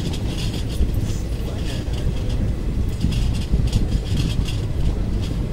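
Express passenger train coach running at speed on the track, heard from its open door: a steady low rumble of wheels on rails with a scratchy rattle coming and going.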